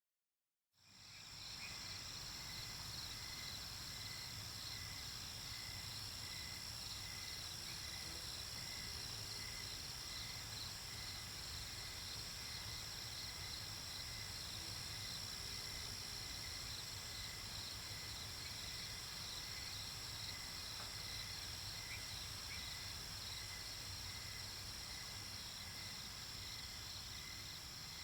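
Night-time nature ambience: a chorus of crickets and other insects chirping steadily, with rows of rapid pulsing chirps over a continuous high trill. It comes in from silence about a second in.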